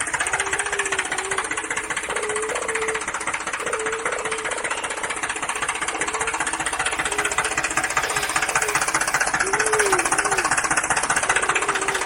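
Battery-powered toy vehicle's small motor and plastic gears running with a fast, steady rattling buzz.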